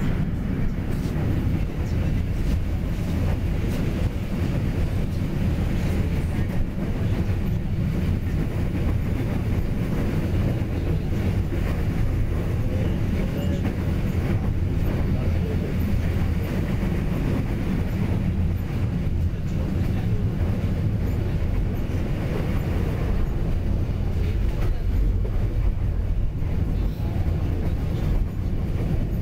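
Passenger train running at speed, heard from on board: a steady low rumble of wheels and carriage.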